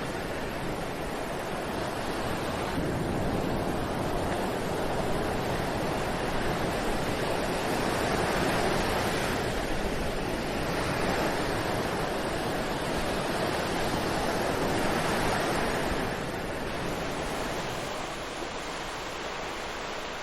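Ocean surf on a beach: a steady rush of waves that swells and eases every several seconds, growing a little softer near the end.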